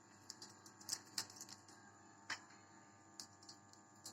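About eight faint, sharp clicks and ticks at irregular intervals against near silence.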